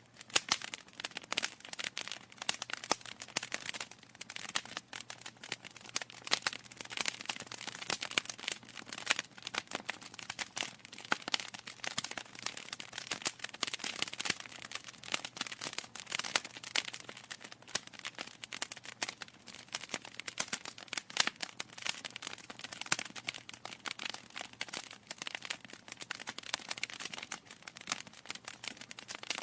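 Wood fire burning in a fireplace, crackling and popping continuously with many small irregular snaps over a soft hiss.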